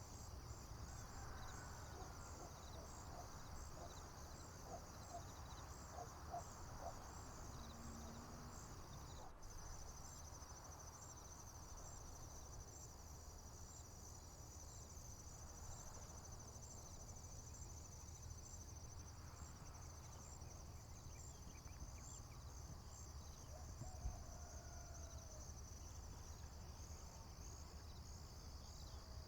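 Faint chorus of field insects, mainly crickets: a steady high-pitched trilling with a regular slow pulse on top, joined about a third of the way in by a second, faster trill. A low rumble runs underneath, and a few faint distant bird calls come through.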